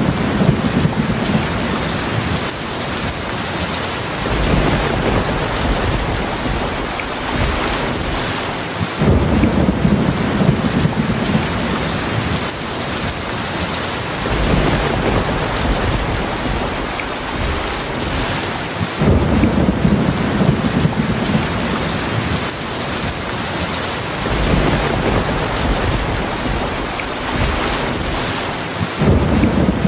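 Heavy rain falling steadily, with low rolling thunder that swells up about every ten seconds.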